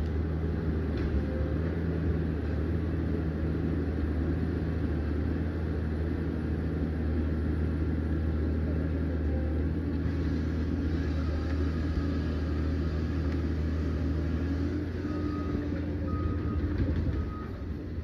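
Diesel engine of a Liebherr 744 crawler dozer running steadily under load, its note changing about fifteen seconds in, with a few short evenly spaced high beeps near the end.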